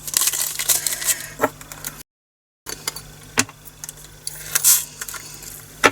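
Small resin diamond-painting drills rattling and clicking as they are handled and poured in their bags and storage container, a busy run of little clicks. The sound drops out to dead silence for about half a second some two seconds in.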